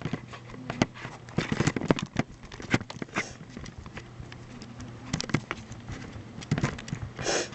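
Irregular small clicks and taps, like handling noise, over a faint steady low hum, with a short breathy hiss near the end.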